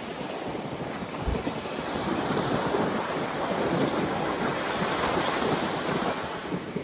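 Ocean surf breaking and washing up the shore: a broad rush that swells through the middle and eases near the end, with wind on the microphone.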